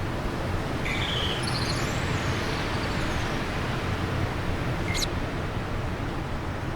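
Steady wind with a low rumble, and birdsong over it: a short run of high chirps about a second in and one sharp high call near five seconds.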